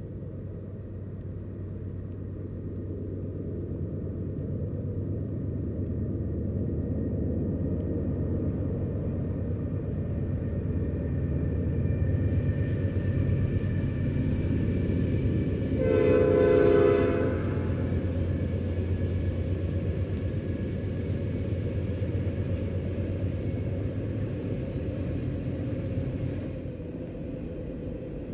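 Diesel freight train running past with a steady low rumble that builds and then eases off near the end. About halfway through, the locomotive's air horn sounds once for about a second and a half.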